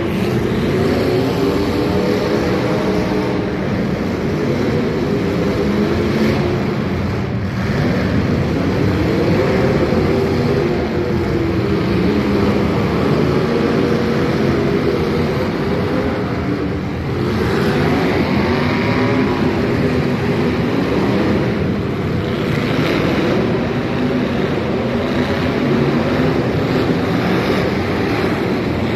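Demolition derby cars' engines running and revving loudly, several at once, their pitch rising and falling again and again.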